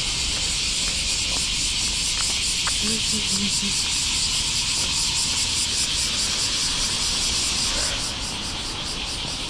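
A chorus of cicadas gives a steady, high buzzing drone with a fast shimmer. Under it runs a low rumble, and a faint voice is heard briefly about three seconds in.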